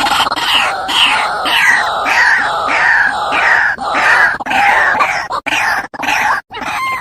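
White-breasted waterhen (ruak-ruak) lure call: loud, harsh croaking calls repeated about twice a second, turning into shorter, choppier notes near the end.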